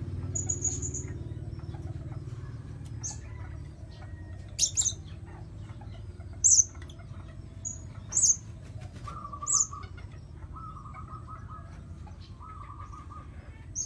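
Blue-crowned hanging parrot calling: short, sharp, high-pitched chirps, singly or in pairs every second or two, over a steady low rumble.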